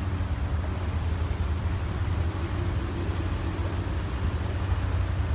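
An engine running steadily, a low rumble with an even hum.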